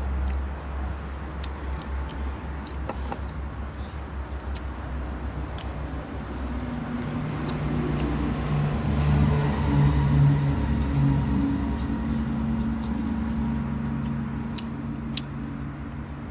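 Road traffic: a steady low rumble with a motor vehicle's engine hum building to its loudest about two-thirds of the way through, then fading as it passes. Faint scattered clicks run under it.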